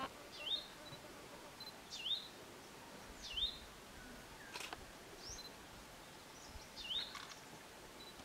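A bird repeating a short swooping call that dips and then rises, about every one and a half seconds, over faint outdoor background noise.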